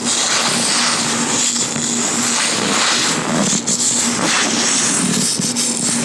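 Latex-gloved hands rubbing and gripping right on the microphone: continuous close friction noise with no pauses.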